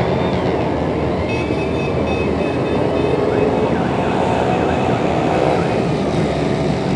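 Many motorcycle engines running together in a passing caravan of motorcycles: a loud, steady, dense drone with some engines rising and falling in pitch as they rev.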